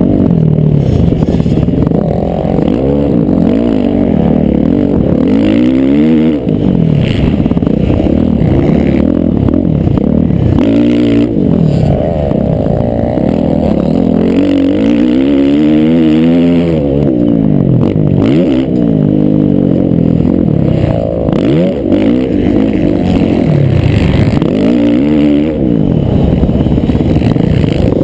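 Several motocross bikes' engines racing, their pitch climbing and dropping again and again as the riders accelerate, shift and back off, with the engines overlapping.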